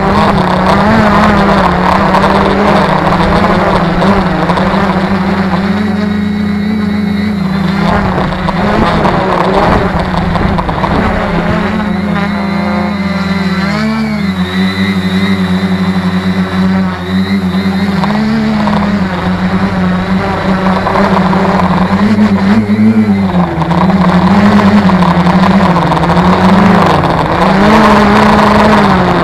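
Tarot 650 quadcopter's motors and propellers buzzing in flight, their pitch wavering up and down constantly as the flight controller fights gusty wind, with a wind-noise hiss.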